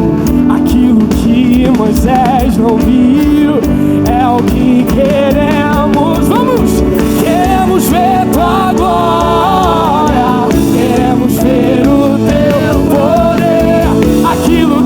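Live gospel worship band playing: a drum kit keeps a steady beat under sustained chords, while a voice sings a wavering, ornamented melody line without clear words.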